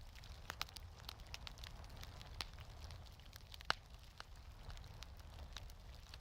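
Wood fire crackling in a fireplace: irregular sharp pops and snaps over a low, steady rumble, with one louder pop about halfway through.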